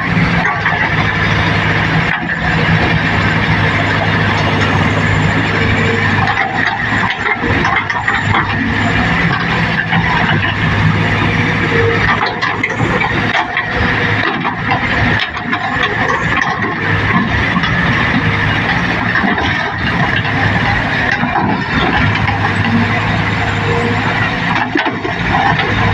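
Komatsu D20P crawler bulldozer running steadily under load, its diesel engine humming with a constant high squeal and frequent clanks from the steel tracks.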